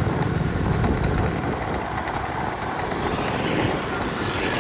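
A vehicle running along a road, with steady rumbling road and wind noise on the microphone.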